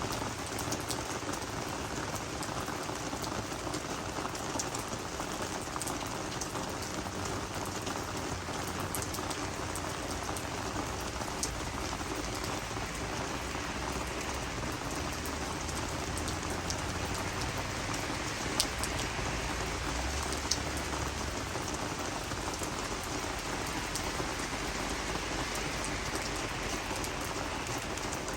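Steady rain falling on garden vegetables and flowers, a continuous patter with scattered sharper drop ticks.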